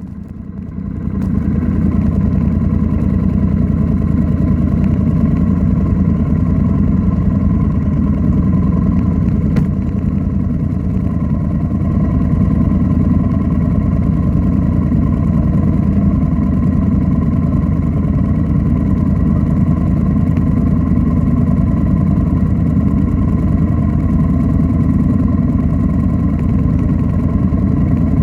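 Royal Enfield Interceptor 650's parallel-twin engine running through an aftermarket Nuke exhaust. It swells over the first couple of seconds, then holds a steady engine speed.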